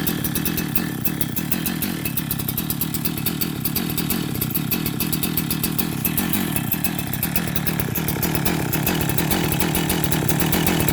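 Husqvarna 372XP two-stroke chainsaw, rebuilt with a 50 mm (71 cc) cylinder and still being broken in, running steadily.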